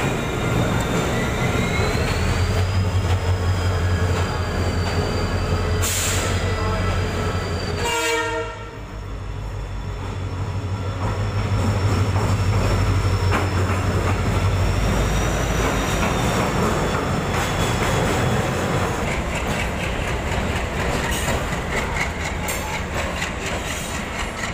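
Indian Railways diesel locomotives passing at speed through a station: a deep, steady engine rumble with a high, wavering squeal from the wheels. The sound breaks off abruptly about eight seconds in as the next locomotive takes over. Near the end comes the rhythmic clatter of passenger coaches' wheels over the rail joints.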